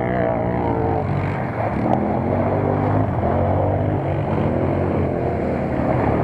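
Off-road vehicle engine running, its pitch rising and falling as it revs, over a steady low engine hum.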